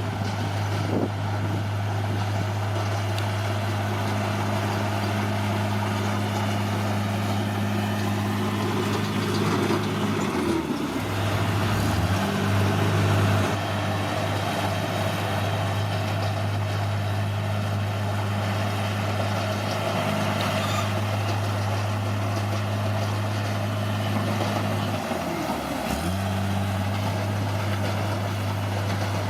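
Heavy diesel engine of a bulldozer running steadily under way, its pitch sagging and recovering briefly twice.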